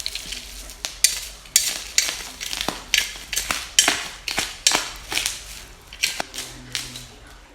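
Packaging being handled and pulled open: rustling and crinkling with a run of sharp clicks and knocks, a few a second, fading toward the end.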